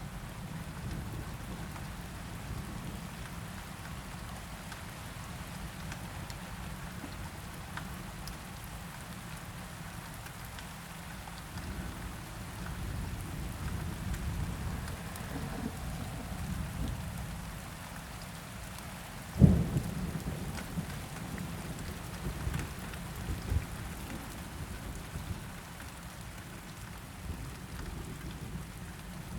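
Steady rain on a surface with a continuous low rumble of thunder. About two-thirds of the way through comes one sharp thunderclap, the loudest sound here, followed by a few smaller rumbling peaks.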